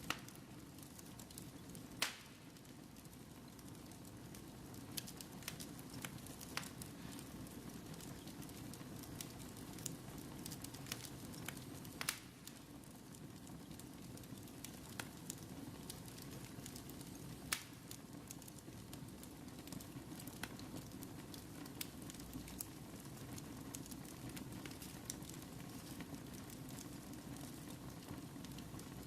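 Fire burning in a fireplace: a steady low rumble with scattered crackles, and three louder sharp pops about 2, 12 and 17 seconds in.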